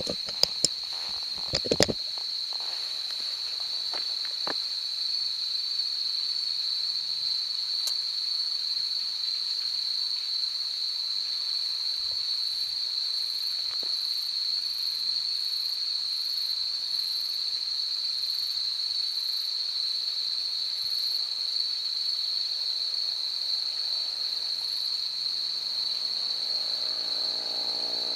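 Insects giving a steady, high-pitched chorus, with a fainter pulsing insect call above it in the middle. Near the end a motorcycle engine comes in faintly and grows louder as it approaches.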